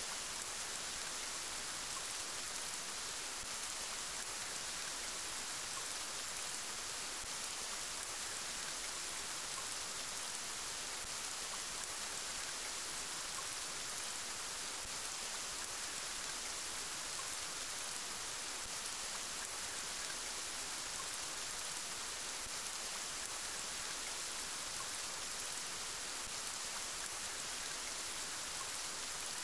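Steady rain falling: an even, unbroken hiss that sits mostly in the high range.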